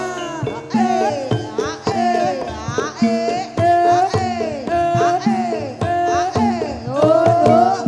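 Javanese gamelan music accompanying an ebeg dance: frequent hand-drum strokes over steady held notes, with a melody line that slides up and down in pitch.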